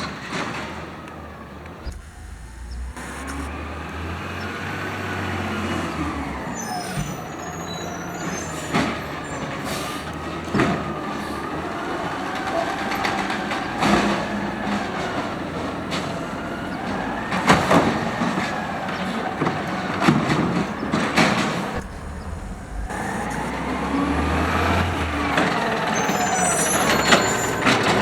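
Automated side loader garbage truck working its lifting arm: the engine and hydraulics rev up and down as the arm cycles, with a string of sharp bangs from recycling carts slammed against the hopper.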